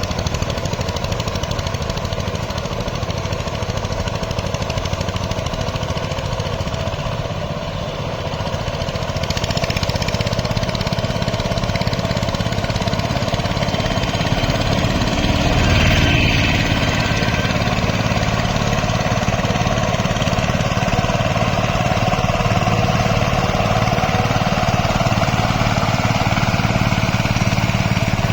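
Diesel tractor engine running steadily under load while puddling a flooded paddy field, growing a little louder partway through with a brief swell about two-thirds of the way in.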